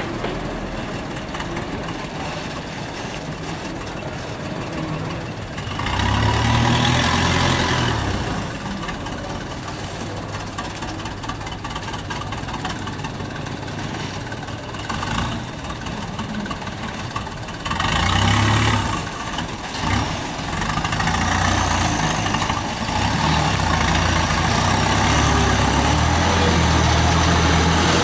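Heavy truck engines running, getting louder in surges about six seconds in and again about eighteen seconds in, then staying loud over the last few seconds.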